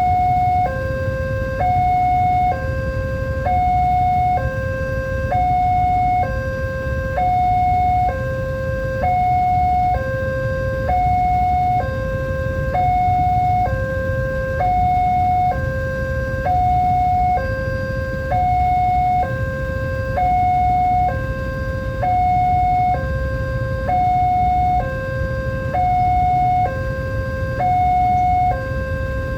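Electronic railway crossing alarm sounding a steady two-tone warning: a higher and a lower tone alternating, each held about a second. A steady low rumble runs underneath.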